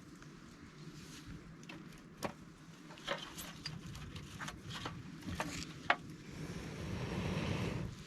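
Campfire crackling with a few scattered sharp cracks and clicks, over steady wind noise that swells in a gust near the end.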